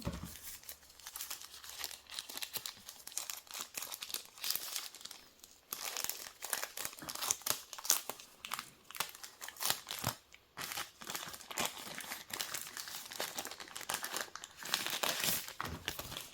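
Packaging wrapped around a security camera being crinkled and torn open by hand, an irregular run of crackles and rustles.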